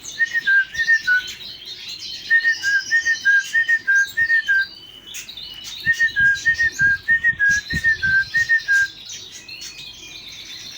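Whistled imitation of a great tit's call: a clear two-note phrase, higher then lower, repeated in three runs of several phrases each. Canaries and other finches chirp continuously behind it.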